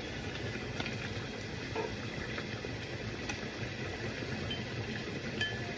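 Hot pot broth boiling steadily in its pot, with a few faint clicks of utensils.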